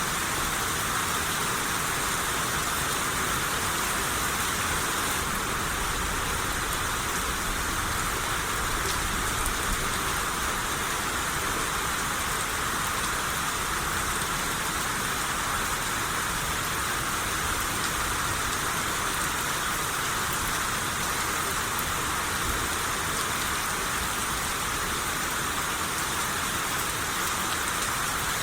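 Steady rain shower falling on surfaces, a constant even hiss with faint scattered drop ticks.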